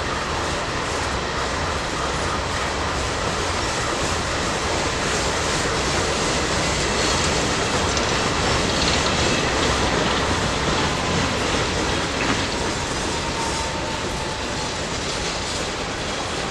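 A train's cars rolling past: a steady rumble and rattle of steel wheels over the rails, with faint high wheel squeal.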